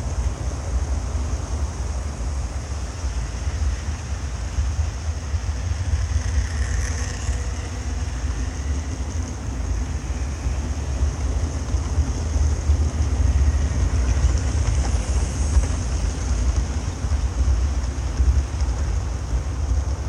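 OO gauge model trains running past on the layout's track, a steady low rumble that swells and fades a little as trains pass.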